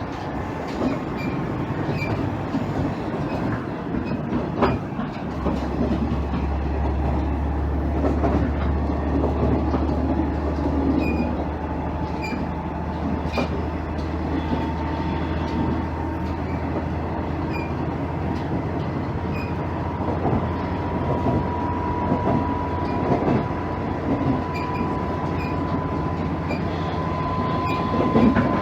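Cabin running noise of a KiHa 110 series diesel railcar under way, with wheels clicking over the rails. A low steady drone comes in about five seconds in, and a faint whine rises slowly in pitch through the second half as the train gathers speed.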